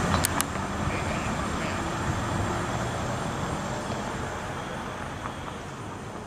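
Low rumble of a loaded Norfolk Southern coal train receding down street-running track, fading steadily away. Two short sharp clicks come right at the start.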